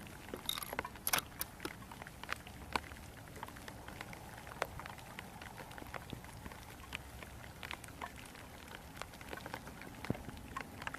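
Heavy rain with drops tapping at irregular moments on nearby surfaces over a faint steady hiss.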